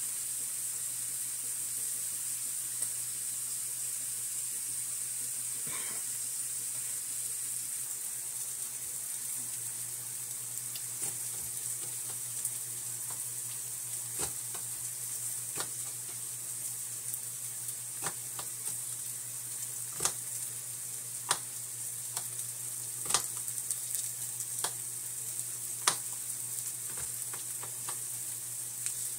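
Food sizzling steadily as it fries. From about ten seconds in, a knife chops celery on a plastic cutting board, making sharp, irregular knocks about once or twice a second.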